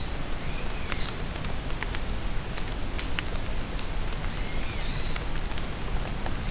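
Steady rain with sharp drips pattering close by, and a bird singing a short, high, arched phrase twice: once about half a second in and again a little after four seconds.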